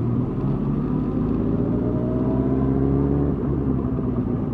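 Suzuki GSX-R 1000's inline-four engine running under light throttle, its pitch slowly rising, then easing off a little past three seconds in.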